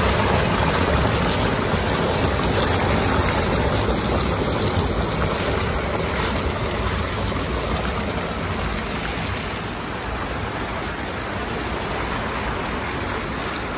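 Fast-flowing creek water rushing over rocks in a strong current, a steady, even roar that eases slightly in loudness about halfway through.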